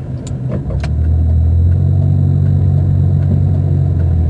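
Car engine and road noise heard from inside the cabin: a steady low drone that grows louder about a second in as the car speeds up, then holds steady.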